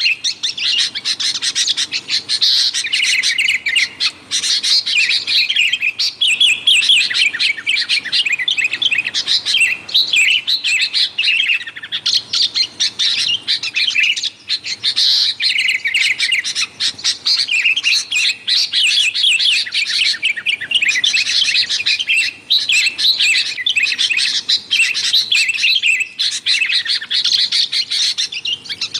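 Sooty-headed bulbuls (kutilang) calling busily: a continuous, noisy run of rapid, high chirping phrases with only brief pauses.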